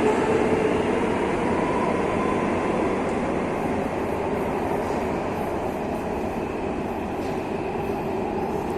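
Madrid Metro train running: a steady rumble of wheels on rail with a held whine, slowly getting a little quieter.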